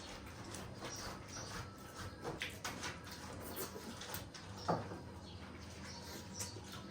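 Mouth noises of eating pork feet: chewing, sucking and lip smacks, with scattered small clicks, the sharpest about two and a half and four and a half seconds in.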